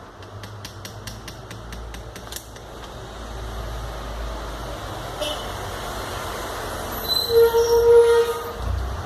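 A rapid run of light metallic clicks, about five a second for the first two seconds: a piston pin rattling in a worn connecting-rod small-end bushing as the rod is worked. The bushing's play is the cause of the engine's knock. Near the end, a short loud horn-like tone sounds for about a second.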